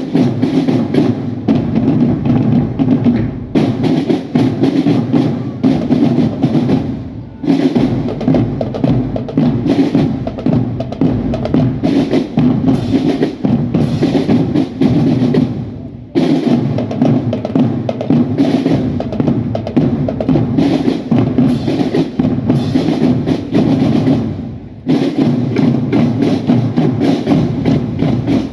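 Marching drum band's drum section playing a cadence on snare, tenor and bass drums, dense and loud. The playing breaks off briefly four times between phrases.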